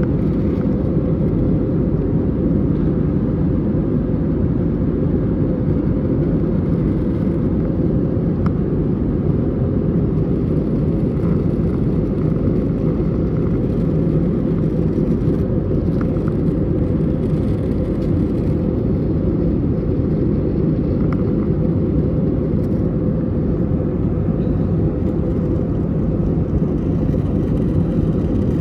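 Steady cabin noise of an Airbus A320neo in its climb: an even rush of engine and airflow, deepest in the low range, with a steady tone running under it.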